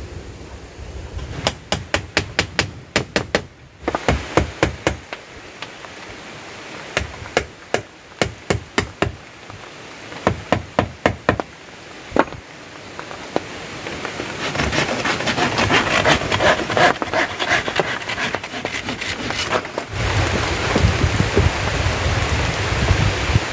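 Quick runs of sharp knocks, about four or five strikes a second in bursts of a second or two, like a tool striking wood. In the second half a dense rustling hiss builds up, with a low wind rumble near the end.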